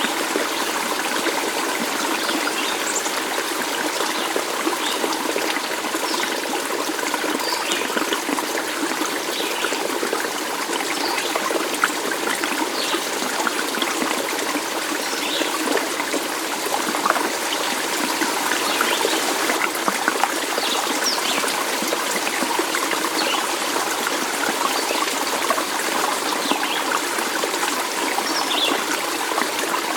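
Stream of water trickling and babbling steadily.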